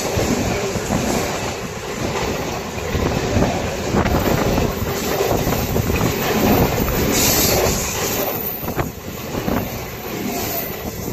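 Indian Railways express train passing at speed: a continuous loud rumble and rush of coaches along the track, with scattered sharp clacks of wheels over rail joints.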